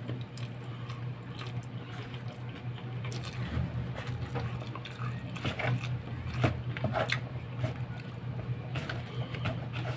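Wet chewing and lip-smacking of a person eating rice and a saucy dish by hand, in many short smacks and clicks. A steady low hum runs underneath.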